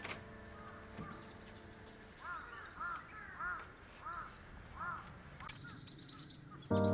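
A crow cawing: about seven short, arched calls in quick succession, with faint higher chirps of small birds. Background music stops before the calls and comes back in loudly near the end.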